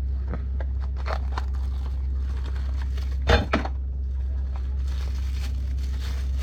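Tools and metal parts being handled during ATV wheel-bearing work: scattered light clicks and rustles, and two sharp knocks a little past the middle, over a steady low hum.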